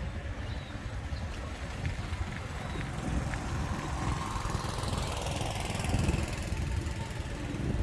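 Street traffic with a steady low rumble, and a vehicle passing by around the middle.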